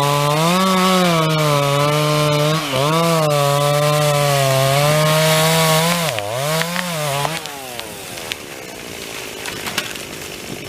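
Stihl MS 250 two-stroke chainsaw cutting through an elm trunk at full throttle, its pitch dipping and recovering as the chain bogs under load. About seven seconds in, the throttle is let off and the engine drops to idle. A few sharp cracks follow.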